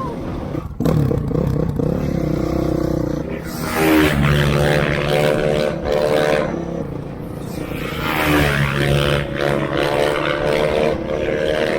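Dirt bike engine revving and pulling hard. The pitch climbs sharply about a second in, again near the four-second mark and again near eight seconds, and holds steady between the climbs, as the rider works up through the gears.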